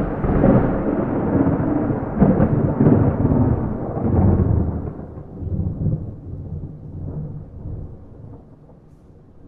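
Thunder rolling with several loud swells in the first few seconds, then slowly dying away to a low rumble, with no rain.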